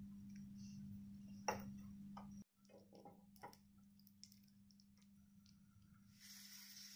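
Near silence: a faint steady hum and a few faint clicks. Near the end a faint hiss begins, the sizzle of cashews and raisins frying in ghee in a small pan.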